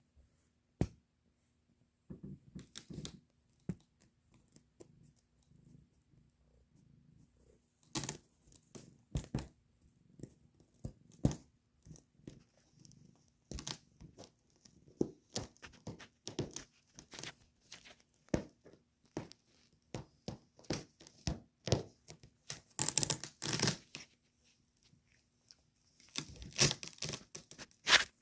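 Velcro hook-and-loop fastener being pulled apart again and again in short rips with pauses between. The rips are few at first, come thick and fast from about eight seconds in, and the longest, loudest ones fall near the end.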